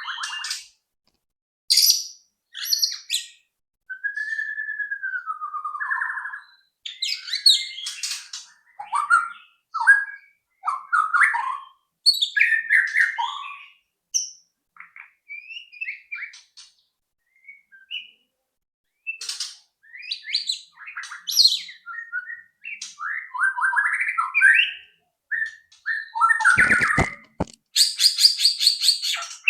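White-rumped shama singing: a long run of varied phrases, clear whistles, slurred glides and quick chattering notes, separated by short pauses, with a fast buzzy trill near the end.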